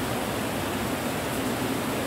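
Steady rainfall: an even, unbroken hiss with no separate drops standing out and no thunder.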